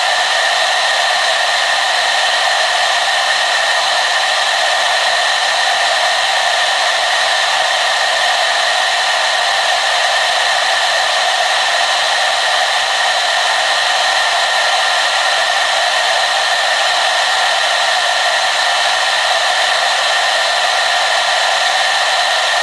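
Hair dryer running continuously: a steady blowing rush with a whine-like hum in it, no change in speed or level.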